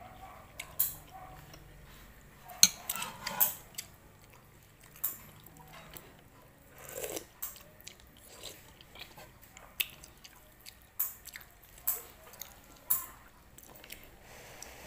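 Close mouth sounds of eating macaroni soup from a spoon: wet chewing and lip smacks, with sharp clicks every second or so and a cluster of louder smacks about three seconds in.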